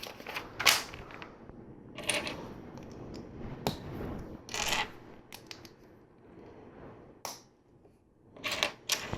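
LEGO plastic bricks clicking and clattering as pieces are picked through and handled, in irregular bursts with a short lull near the end.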